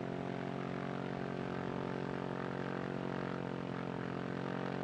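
Light aircraft's water-cooled two-stroke engine and propeller running steadily during warm-up, a constant even drone with no change in speed.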